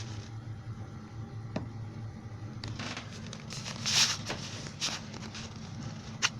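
Washing machine running with a steady low hum. Scattered clicks and a few brief hissing, rustling splashes come through it, the loudest about four seconds in, with a sharp click near the end.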